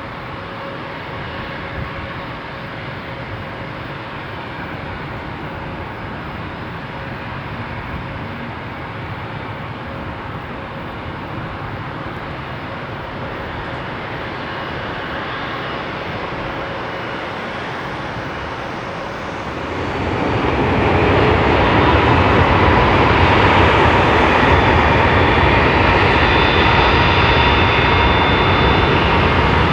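Steady jet engine noise from an Airbus A340-600 with four Rolls-Royce Trent 500 engines, slowly growing louder. About two-thirds of the way through it switches abruptly to the louder, steady jet noise of a Boeing 767-300ER's engines, with a faint steady whine over it.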